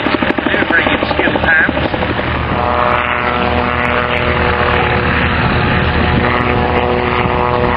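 Calidus autogyro's engine and pusher propeller droning in display flight: a fast, even chopping pulse for about the first two seconds, then a steady humming engine note.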